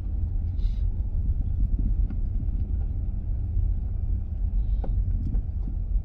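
Low, steady rumble of a car driving slowly, heard from inside the cabin, with a faint click about five seconds in.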